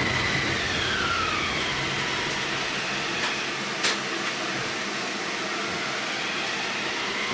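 Tram running on rails, its motor whine gliding down in pitch over the first couple of seconds as it slows, over a steady rumble of wheels on track. A click comes about four seconds in, and the whine starts to rise again near the end.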